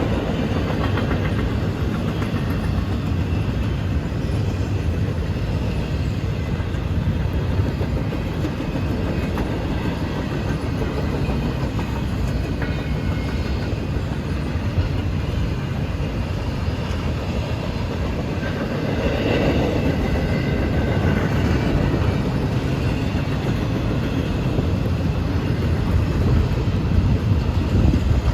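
Freight train cars rolling past, a steady noise of steel wheels on rail.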